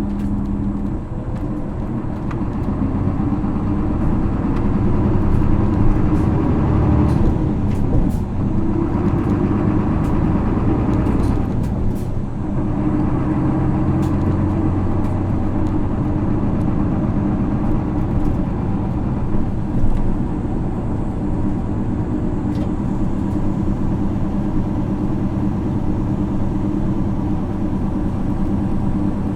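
Isuzu Erga city bus with a 6HK1 inline-six diesel engine running on the road. The engine note breaks and changes twice, about a quarter and about two-fifths of the way in, then holds steady.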